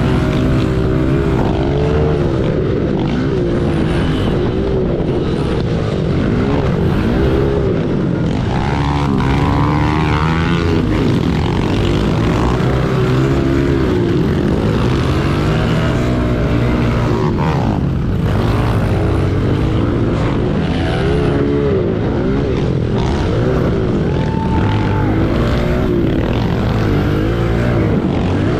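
Pit bike engines racing, revving up and down over and over as the riders work the throttle through the track, with several engine notes overlapping.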